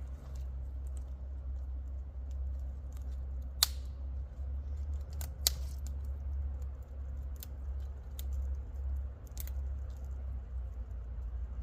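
Campfire crackling: a few sharp, isolated pops spread irregularly over a low, steady rumble.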